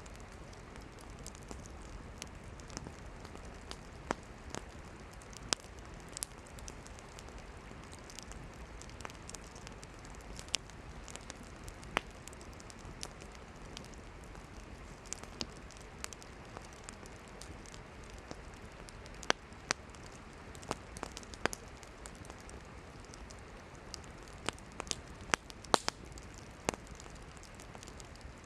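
Wood campfire burning: a steady hiss of flames with irregular sharp crackles and pops from the burning firewood, a cluster of louder pops in the last few seconds.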